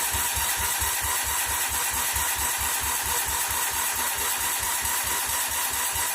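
Kohler K-series single-cylinder engine on an old Ford garden tractor being cranked by its electric starter, choke on and throttle wide open: a steady starter whine over an even chug of about five compression beats a second, the engine not yet firing.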